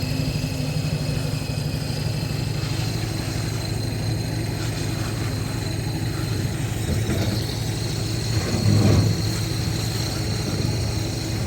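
An engine idling steadily, with a brief louder swell about nine seconds in.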